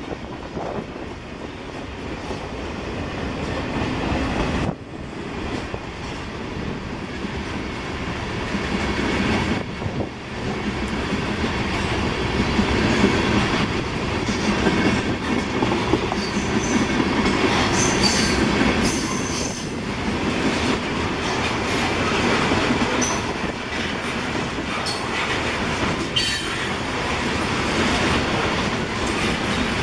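Freight cars of a Kansas City Southern train rolling past on steel rails, with short high-pitched wheel squeals through the second half.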